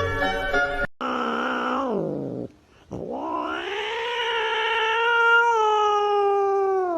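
A domestic cat yowling in two long drawn-out cries: a shorter one that falls away, then after a brief pause a much longer one that rises, holds and drops off at the end. Music plays for the first second.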